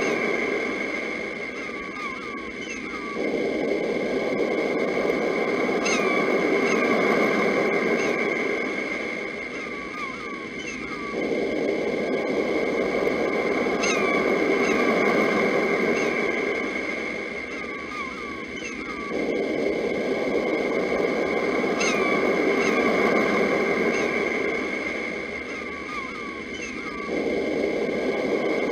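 Sea waves washing in and out in an even cycle, each surge starting abruptly about every eight seconds, with small birds chirping over a steady high-pitched hum.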